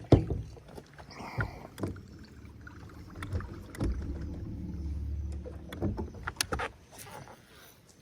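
Knocks and bumps in and against a jon boat, the loudest right at the start and a cluster more about six and a half seconds in, with a low steady hum for about two seconds in the middle.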